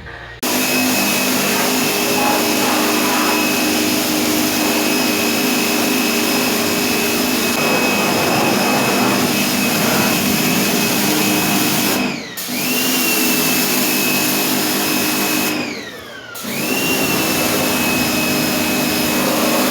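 Power sander running steadily with a high whine while sanding down body filler on a car fender. Twice in the second half it briefly slows, its pitch falling, then spins back up to speed.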